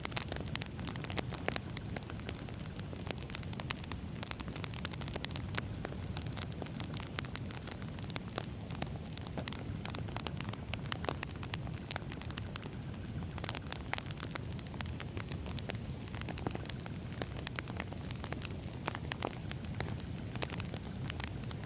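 Wood fire burning: a steady low rumble of flames with frequent sharp, irregular crackles and pops of burning logs.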